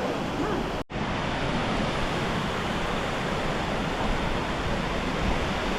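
Steady roar of Multnomah Falls, a tall waterfall, a dense even rush of falling water. It cuts out for an instant a little under a second in, then carries on unchanged.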